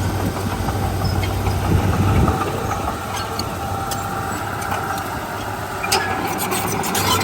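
Komatsu D31P bulldozer's diesel engine running steadily, its low drone easing about two seconds in.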